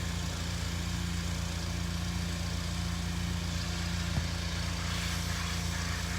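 Car engine idling steadily, a low even drone from an exhaust whose muffler needs work. A single short click about four seconds in.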